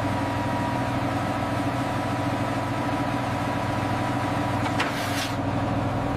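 Steady engine-like machinery hum, with a click and a short hiss about five seconds in.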